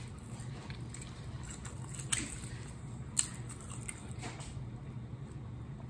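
Close-miked biting and chewing of a sauce-coated chicken wing: wet smacking mouth sounds with a few sharp clicks, the two loudest about two and three seconds in.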